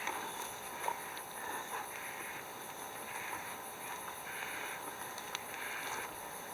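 Insects chirping outdoors: a high, fast, even pulsing trill, with a lower buzzing call repeating about once a second.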